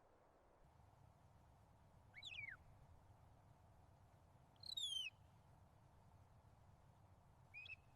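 Faint background ambience with three short bird calls: two quick falling whistles, about two and five seconds in, and a brief shorter call near the end.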